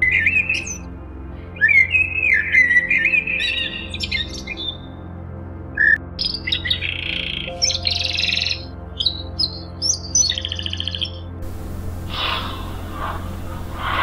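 Bird calls: short chirps and whistled sweeps, a pause about five seconds in, then more calls ending in a fast trill about eleven seconds in. A steady low hum runs underneath.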